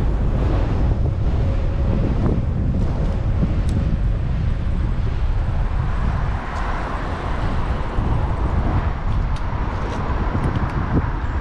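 Wind buffeting a GoPro microphone mounted on a moving bicycle, mixed with city road and traffic noise. A steadier hum joins about halfway through.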